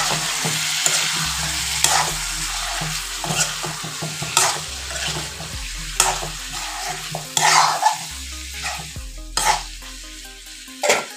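Boiled potato chunks frying in spiced oil in a kadai, sizzling steadily while a metal spatula stirs them and scrapes and knocks against the pan several times. The sizzle grows fainter over the last few seconds.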